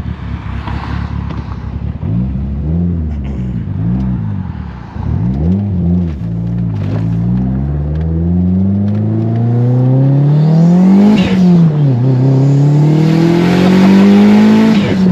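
Turbocharged all-wheel-drive car's engine revved up and down about four times, then pulling hard with a long rising pitch. The pitch drops suddenly at a gear change about eleven seconds in, then climbs again.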